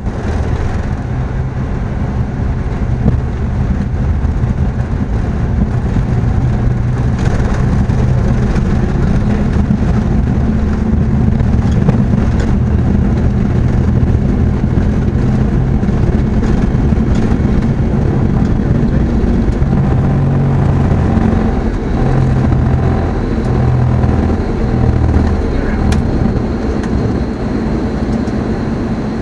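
Embraer ERJ 145's twin Rolls-Royce AE 3007 turbofans running at high power with airflow noise, a steady loud rush over a low hum that wavers in the middle, and a faint high steady tone coming in past the halfway point.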